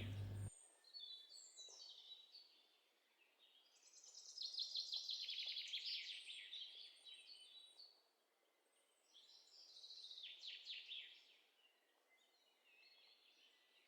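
Faint birdsong: a small bird singing three high, descending trilled phrases, the middle one longest and loudest.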